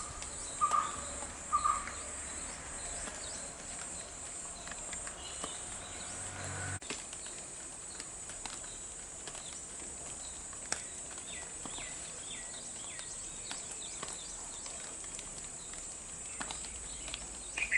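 Outdoor garden ambience: a steady high-pitched insect drone, short scattered bird chirps, and small ticks of water dripping.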